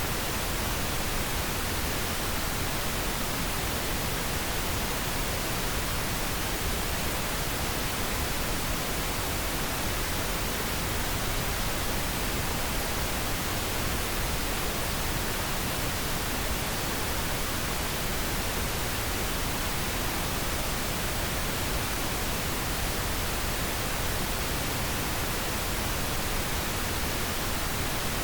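Steady synthetic pink noise: an even, unbroken hiss across all pitches, unchanging throughout.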